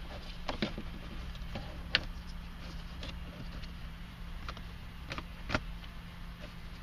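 Scattered light plastic clicks and knocks as a cabin air filter is slid into its housing, over a steady low hum.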